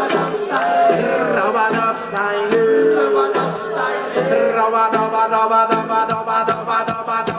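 Live reggae band playing. Long held, sliding melody notes ride over the band for the first half. After that the band carries on with a steady drum beat and sustained chords.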